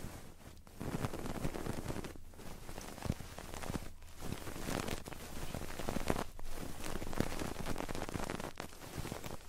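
Close-miked ASMR crackling and rustling, from fingers working on the microphone's ears. It runs densely with brief breaks a few times.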